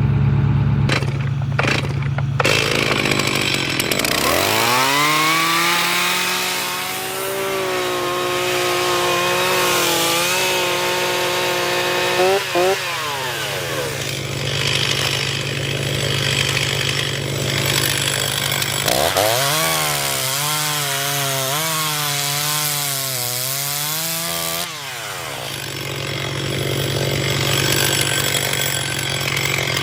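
Chainsaw cutting firewood: the engine revs up to full throttle about four seconds in and holds for some eight seconds through a cut, drops back, then revs up and cuts again for about five seconds. A steady low hum runs underneath.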